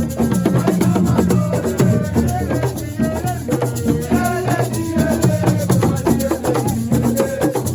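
Live assiko music: shaken rattles and drums playing a dense, steady rhythm, with a voice singing a wavering melody over it.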